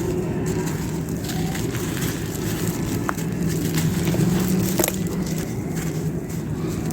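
Dry, fired clay pot pieces crunching and crumbling as they are crushed, with a few sharp cracks. Under them runs a steady low hum.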